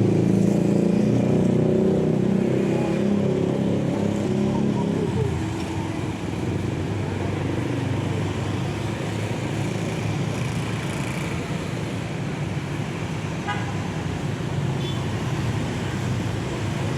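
Motor vehicle engine running, loudest for the first five seconds, then dying down to a steady lower rumble.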